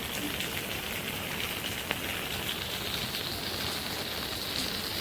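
Steady rain falling, with scattered drip ticks and one sharper tick about two seconds in.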